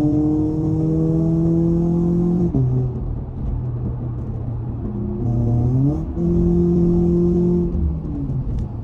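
Toyota 86's flat-four engine and exhaust running under load, its note slowly rising, then dropping back about two and a half seconds in. The revs climb again, hold steady for a while, and ease off near the end.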